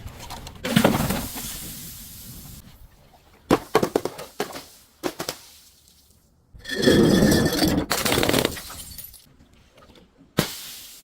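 Glass bottles smashing, several separate breaks: a crash about half a second in, a run of smaller cracking and tinkling pieces in the middle, and the loudest, longest shattering about two thirds of the way through with a brief ringing of glass, then another break near the end.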